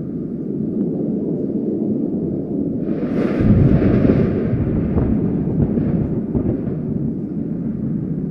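Thunder rumbling deep and continuously, with a louder crack that breaks out about three seconds in and rolls away over the next few seconds.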